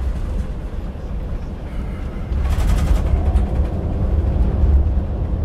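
Airbus A380 cabin noise on approach: a loud, steady low rumble of engines and airflow. It grows louder about two seconds in, with a brief rushing hiss.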